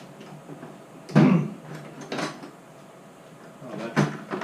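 Hand tools clanking while being sorted through: three short metallic knocks and rattles, about a second in, at about two seconds and near the end, as sockets are picked out to fit the oil filter housing cap.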